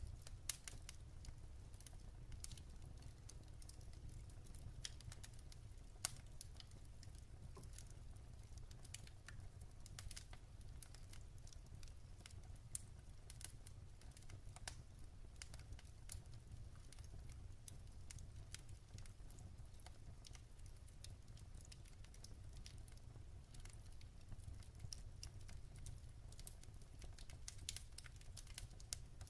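Firewood burning in a wood fireplace: faint, irregular crackles and small pops over a low steady rumble, with one sharper pop about six seconds in.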